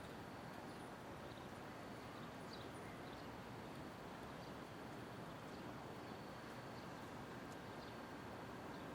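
Steady city street ambience: a low wash of traffic and urban hum, with faint, irregular clicking steps scattered through it.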